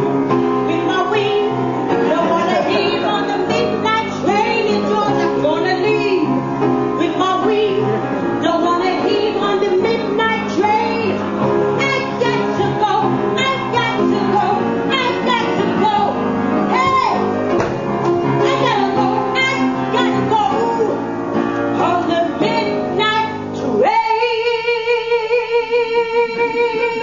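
A song with a woman singing over instrumental backing. About 24 seconds in, the backing and the changing melody drop away to one held note with a steady, pulsing wobble in loudness.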